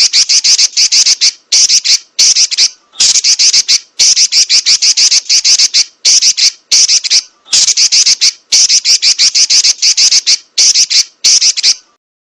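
Female Pekin robin (red-billed leiothrix) giving a rapid, harsh chattering trill in repeated bursts of about a second each, separated by short breaks. It stops shortly before the end.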